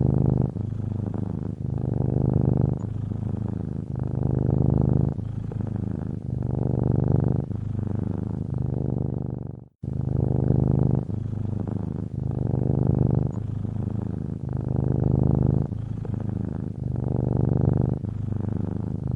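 Domestic cat purring steadily, the purr swelling and easing about once a second with its in- and out-breaths. It cuts out briefly about ten seconds in.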